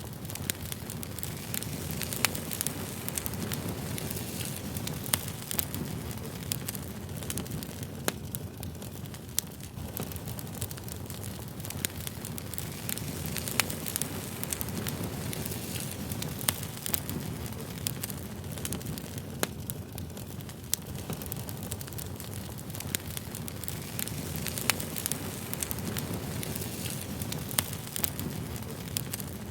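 Campfire burning: a steady low rumble of flames with sharp, irregular crackles and pops of burning wood.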